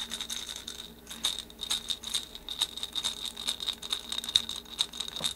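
Hand rattle shaken in a quick, steady rhythm of several strokes a second, keeping time between songs.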